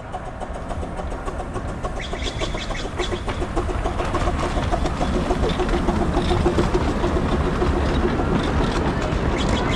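Miniature railway train approaching and running past, its wheels clicking over the rail joints, growing louder over the first few seconds and then holding steady.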